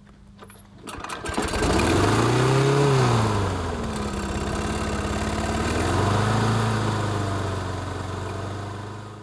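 A Honda HRR2169VKA lawn mower's single-cylinder engine starts about a second in, its speed rising and then dropping back. It runs on, picks up again midway, and fades out near the end.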